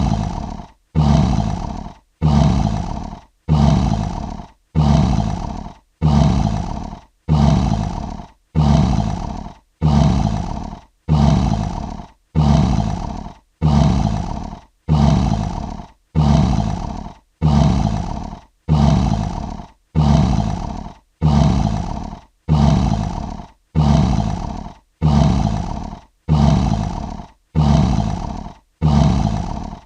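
Lion roar sound effect: the same short roaring grunt looped over and over, about once a second, each one starting loud and fading away before the next.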